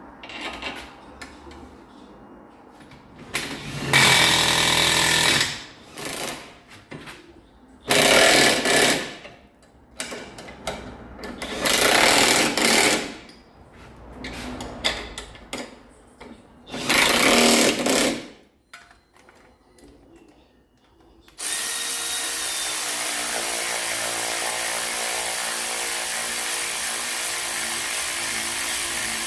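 Pneumatic impact wrench rattling in four short bursts, with clinks of tools between them; about two-thirds of the way through, a steady machine noise starts and keeps running.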